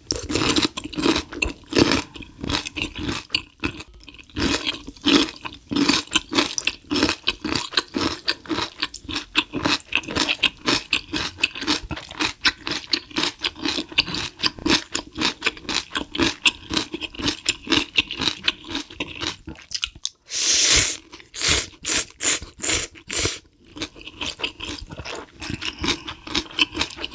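Close-miked eating of ramyun with gimbap and kimchi: quick, continuous chewing and wet mouth smacks. There is a louder, noisier run of mouth sounds about twenty seconds in.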